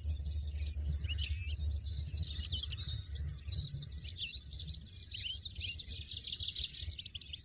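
European goldfinches twittering: a dense run of quick, high chirps and short rising and falling notes, thinning out in the last second or so.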